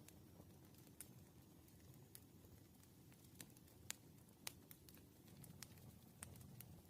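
Near silence: a faint low room hum with scattered light ticks of a pen on paper during written problem solving, about seven of them at irregular intervals.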